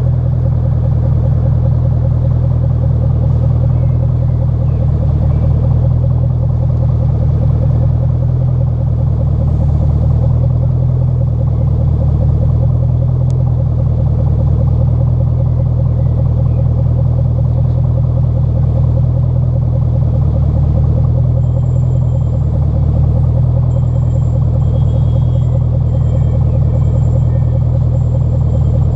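Ford Mustang 4.6-litre V8 running steadily at idle through its exhaust, a constant low rumble that holds one pitch with no revving.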